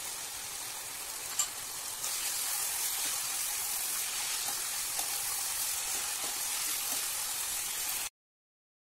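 Mutton and coriander sizzling as they fry in a pan while being stirred with a metal spoon, a steady hiss that grows a little louder after about two seconds. One sharp click about a second and a half in. The sound cuts off suddenly near the end.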